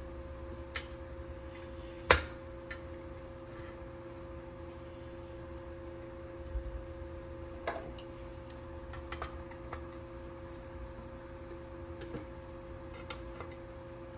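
Scattered light clicks and taps, like small hard parts being handled, with one sharp click about two seconds in, over a steady two-tone hum.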